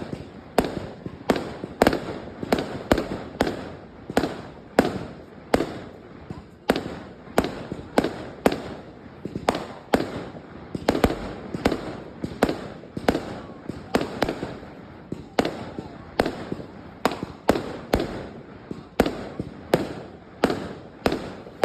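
Aerial fireworks exploding in a rapid, irregular barrage, about two loud bangs a second, each with a short echoing tail.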